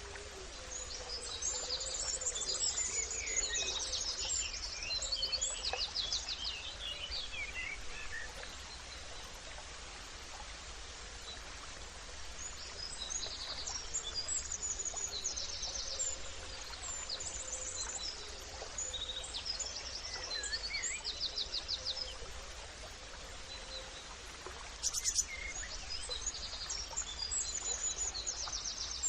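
Songbirds chirping and trilling in several overlapping bursts, high-pitched, over a steady background hiss.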